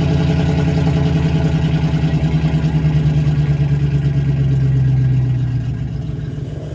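A vehicle engine running loudly at a steady, raised speed. About five seconds in it eases off and becomes quieter.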